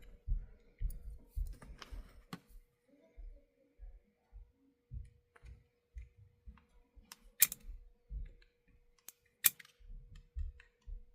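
Small tools and parts of an HO-scale model locomotive clicking and tapping during hand work on its chassis, with dull low bumps of handling and two sharper clicks in the second half. A faint steady hum runs underneath.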